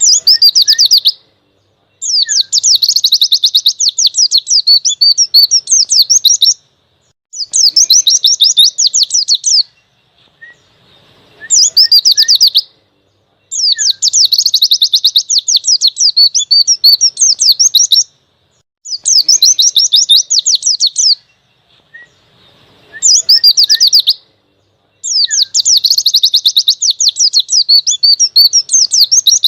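White-eye (pleci) singing a fast, high, twittering warble in bursts of one to five seconds, with pauses of about a second between them: about eight phrases in all.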